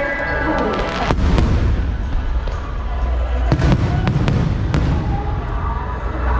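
Aerial fireworks bursting: sharp bangs about a second in, then a cluster of several bangs with low rumbling booms between three and a half and five seconds. Music plays underneath.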